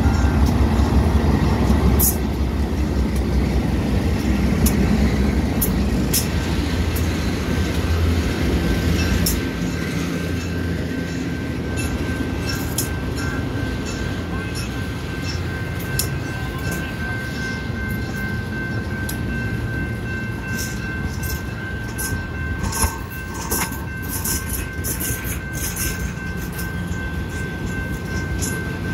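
Train passing close by: the diesel locomotive units' engines rumble heavily for the first several seconds, then stainless-steel passenger cars roll past with steady wheel-on-rail noise and many sharp clicks. A steady high tone runs through.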